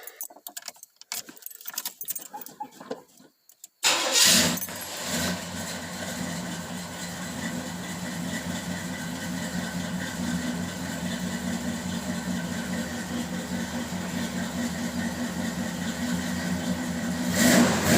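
1981 Chevrolet Monte Carlo's 355 V8 cold-starting: a few small clicks and rattles, then it fires about four seconds in with a loud burst and settles into a steady idle. It briefly gets louder again near the end.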